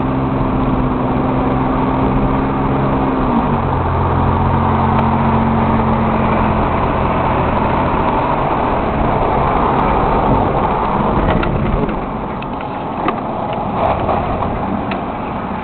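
Car engine running with steady road rumble while driving. The engine tone drops in pitch about three and a half seconds in, and the sound eases somewhat later, with a few light clicks near the end.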